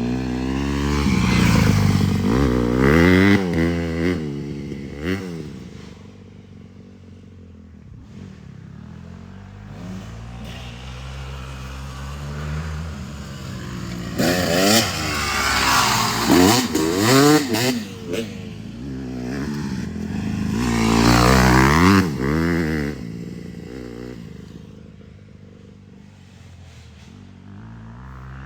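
Dirt bike engines revving hard, the pitch climbing and dropping again and again as the bikes accelerate and shift. There are three loud spells, at the start, around the middle and a little later, with quieter running in between.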